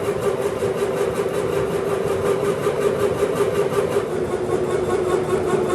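A machine running steadily, with a constant mid-pitched hum and a fast, even pulsing.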